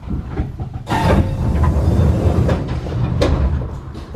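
Train rumble heard from inside the cab of a stopped electric train: a low rumble that swells about a second in, with a few sharp knocks, easing near the end.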